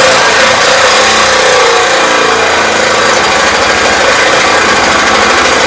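Reciprocating saw (sawzall) running hard, cutting through a truck's metal exhaust pipe, its pitch wavering slightly as the blade loads up.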